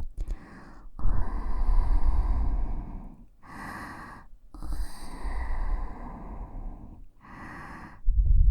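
Breath blown at close range onto a KU100 binaural dummy-head microphone in about four separate puffs of a second or two each. The longer puffs carry a heavy wind rumble on the microphone, and the shorter ones sound brighter and airier.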